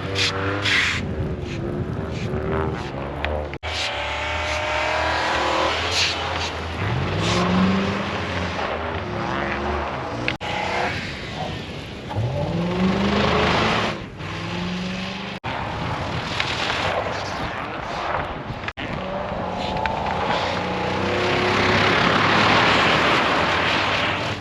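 Car engine revving up several times over a steady hiss of spinning wheels, in short stretches that break off abruptly.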